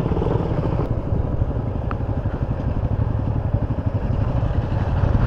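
Motorcycle engine running steadily under way, an even low pulsing beat.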